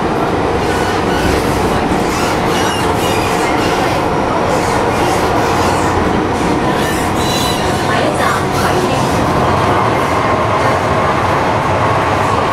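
An MTR Metro-Cammell M-Train electric multiple unit running between stations, heard from inside the car. Loud, steady rail running noise carries a steady whine.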